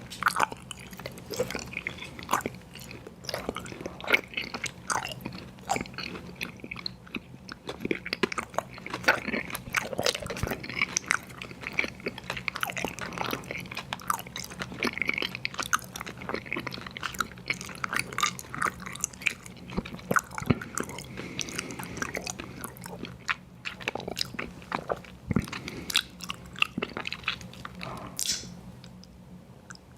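Close-miked chewing and biting of sour gummy worms cereal: continuous wet, sticky mouth sounds with irregular crunches and clicks. A faint steady hum runs underneath.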